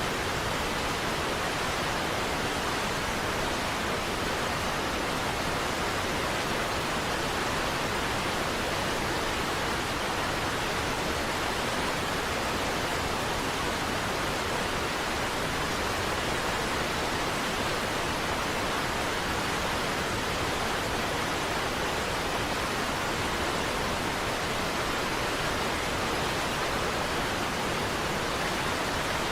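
Niagara Falls waterfall: falling water rushing in an even, unbroken noise that never changes.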